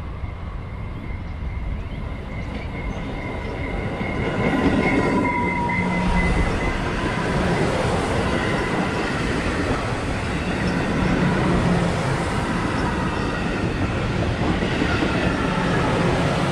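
Commuter train passing close by. A high, steady whine sounds as it approaches, then from about four seconds in a loud, steady rumble of wheels on the rails as the cars go past.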